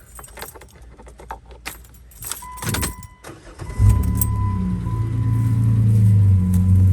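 Keys rattling and clicking at the ignition and a short steady beep, then the Jeep JK Wrangler's V6 catches about four seconds in and runs at a steady idle. Its exhaust, with the rear muffler deleted and only a MagnaFlow muffler under the driver's seat, is louder and more aggressive than stock.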